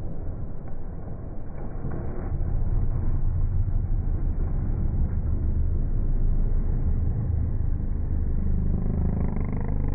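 Rally car on a stage, its engine running hard as a steady low drone mixed with road rumble, growing louder about two and a half seconds in.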